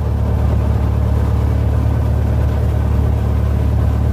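An engine running steadily at an even speed, a loud low hum.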